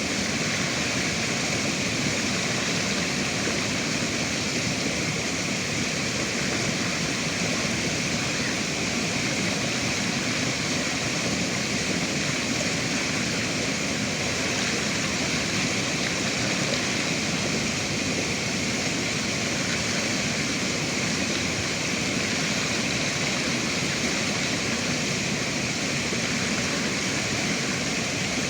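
River water rushing, a steady unbroken flow.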